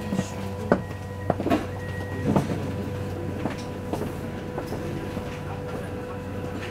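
Steady hum inside a passenger train standing at a platform, with faint steady tones. A few sharp knocks and clicks come in the first couple of seconds, then the hum runs on evenly.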